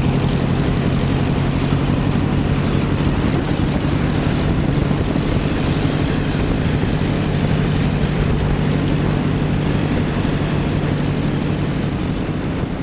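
1929 Henderson KJ's 80 cubic inch inline four-cylinder engine running steadily.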